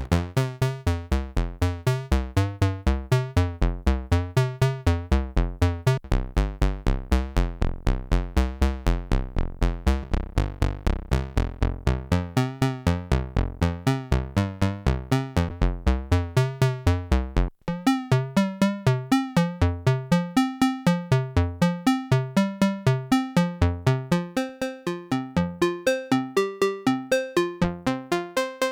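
Roland SH-09 monophonic analog synthesizer playing a fast, repeating step-sequenced line of about four to five notes a second. About two thirds of the way in it breaks off for an instant and resumes with a higher, brighter pattern.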